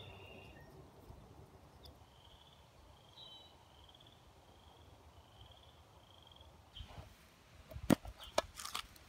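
A bird calls a run of short, even, high notes over quiet woodland background. Near the end come a few sharp clicks and knocks, the loudest a single knock about eight seconds in.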